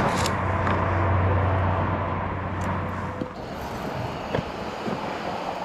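A steady low hum that stops about three seconds in, followed by a few faint clicks.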